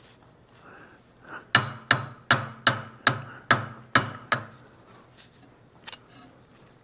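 A hammer tapping eight quick blows, about three a second, on the shock absorber's machined metal ring to work it into place on the arm, each strike ringing briefly.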